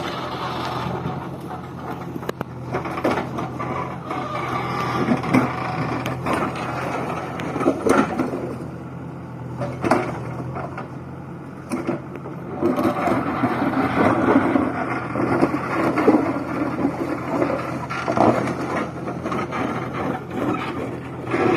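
JCB 3DX backhoe loader's diesel engine running steadily, with irregular scraping and knocking over it.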